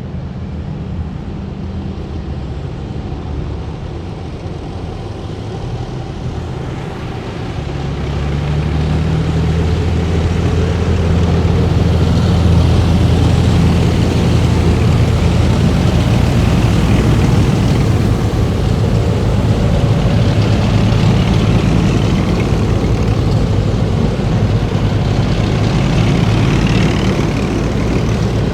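Heavy military vehicles' diesel engines running as a column drives past, a deep steady rumble that swells about eight seconds in as a vehicle comes closer and stays loud.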